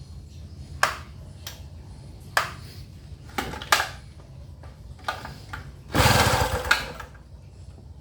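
A few sharp clicks and knocks of handling on a gasoline inverter generator, then one quick pull of its recoil starter, about six seconds in, cranking the engine briefly without it catching.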